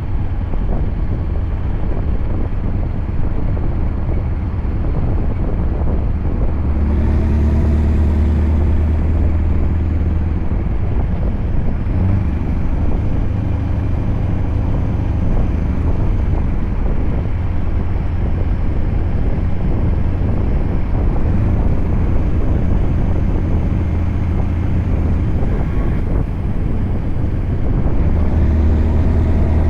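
Scania V8 truck engine running steadily while the truck drives, with wind and road noise. The engine note grows louder about seven seconds in and again near the end.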